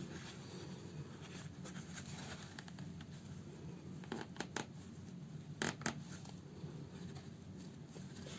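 Hand-sewing a house slipper: needle and thread drawn through the fabric with soft scratchy rasps, and two pairs of sharp clicks about four and six seconds in.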